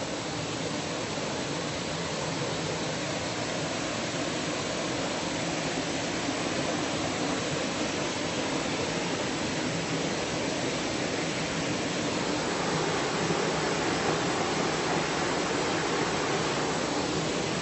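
Steady rush of flowing water from a river or waterfall, growing slightly louder part way through.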